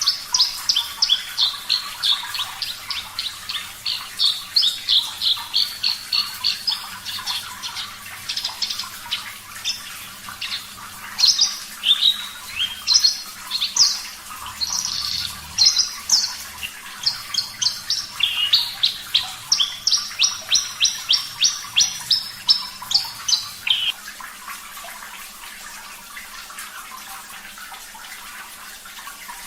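Javan bush lark (branjangan) singing a long, rapid string of short, sharp notes that jump up and down in pitch, stopping about 24 seconds in. A faint steady trickle of water remains.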